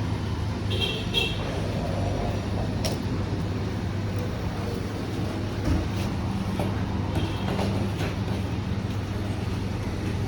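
Steady low machine hum over a background haze of noise, broken by a few faint clicks and a brief high chirp about a second in.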